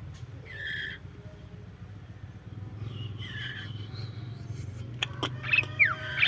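Aviary birds calling: two short harsh calls, then sharp clicks and several quick falling whistles near the end, the loudest part, over a steady low hum.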